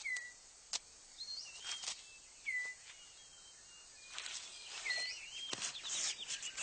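Rainforest bird calls: short whistled notes, each sliding down, repeated every second or so and busier in the last couple of seconds, among a scatter of sharp clicks and snaps.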